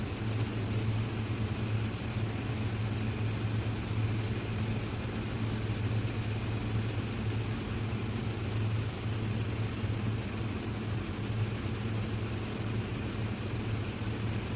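Steady low machine hum from something running throughout, its pitch and level unchanging.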